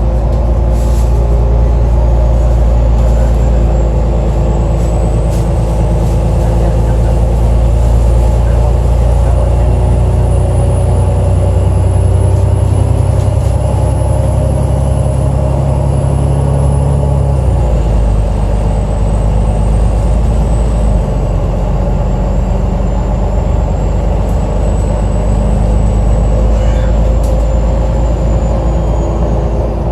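Alexander Dennis Enviro 500 double-decker bus engine running under way, with a thin high-pitched whine that slowly rises, then falls. This is the engine sound called weird. About halfway through, the low engine drone drops abruptly and steadies at a new note.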